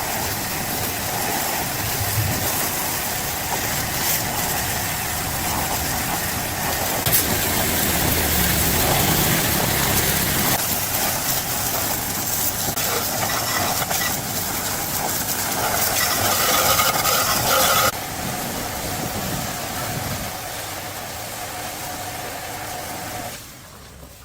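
Loud, steady hissing machine noise that changes character twice along the way and cuts off about a second before the end.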